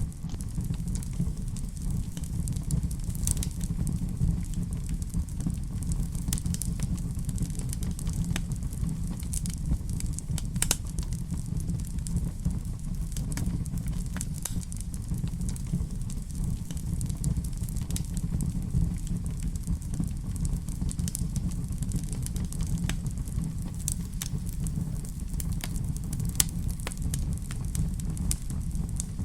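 Wood fire burning in a fireplace: a steady low rumble of the flames with frequent small crackles and pops, a sharper pop about ten seconds in.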